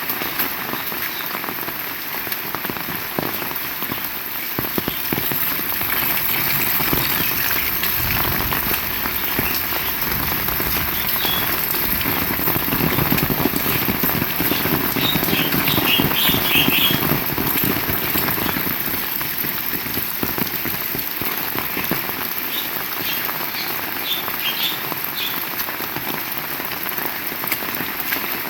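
Heavy rain falling steadily, with a few clusters of short high chirps near the middle and toward the end.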